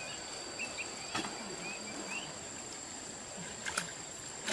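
Outdoor rural ambience: a steady high-pitched insect drone with small chirping calls in the first couple of seconds. A couple of sharp clicks or knocks come about a second in and near the end.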